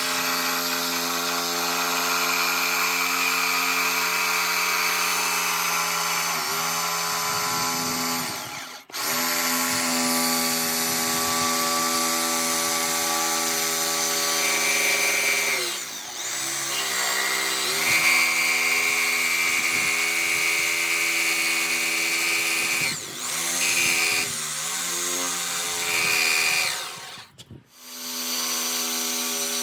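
Electric power tool running hard in long stretches, its motor whine dipping in pitch under load several times and stopping briefly about a third of the way in and again near the end.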